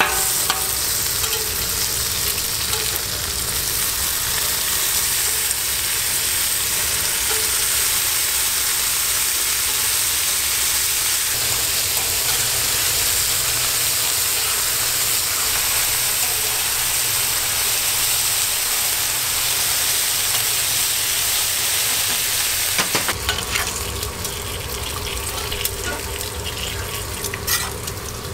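Bacon strips frying on a flat-top griddle: a steady, hissing sizzle of fat. About 23 seconds in, the sizzle drops a little and changes, and a few sharp clicks of a metal spatula on the griddle come in as beef patties cook.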